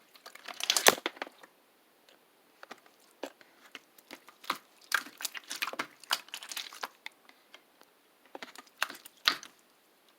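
Irregular crinkling and crackling, like a wrapper, plastic or paper being handled. It comes in short clusters of sharp crackles with quiet gaps between them, loudest about a second in.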